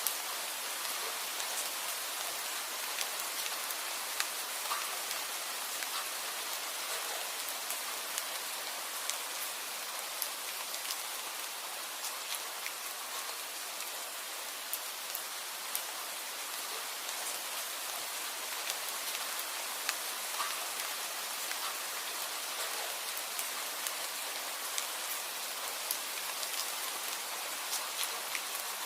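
Steady rain, an even hiss with many scattered sharp drop ticks.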